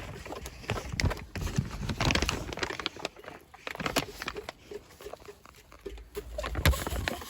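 Chickens pecking at granola: a quick, irregular run of beak taps and clicks.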